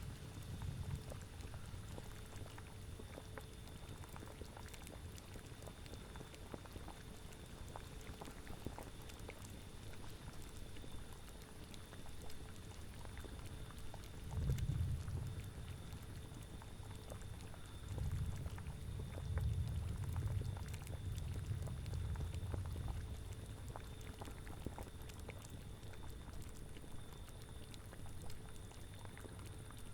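Thick liquid bubbling at a steady boil, like a cauldron, with many small pops. A low rumble swells up about halfway through and again for several seconds a little later.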